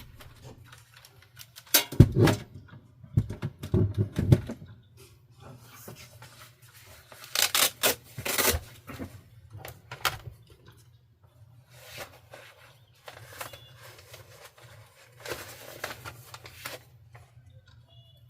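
Objects being handled in a small room: irregular knocks, thumps and scraping, in the heaviest clusters about two to four seconds in and again around eight seconds, over a steady low hum.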